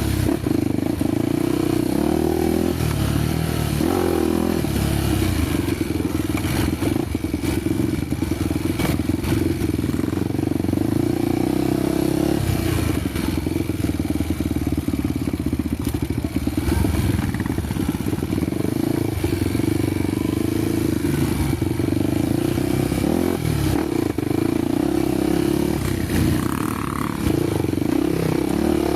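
Honda XR250 Tornado's single-cylinder four-stroke engine running as the bike rides a dirt trail. The engine pitch rises and falls a little near the start and again near the end.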